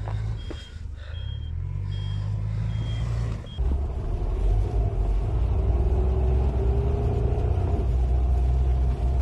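A vehicle's reversing alarm gives short high beeps, repeating a little under once a second, over a low engine rumble. About three and a half seconds in the sound changes abruptly to a louder, deeper engine rumble with a steady whine.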